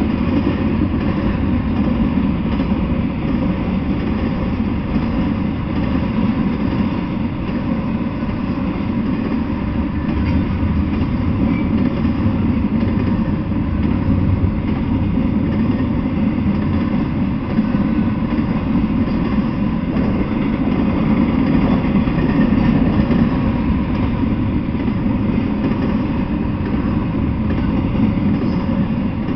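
Intermodal freight train of trailers and double-stacked containers running past at steady speed, its cars making a continuous low rumble without let-up.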